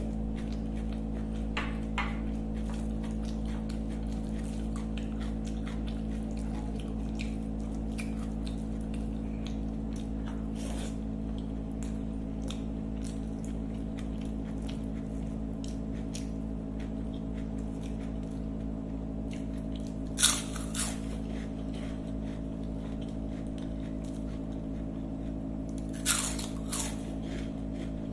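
Close-up eating sounds: a person chewing a hand-mixed mouthful of rice and curry, with small wet mouth clicks, over a steady hum. Two louder sharp sounds stand out, about two-thirds of the way in and again near the end.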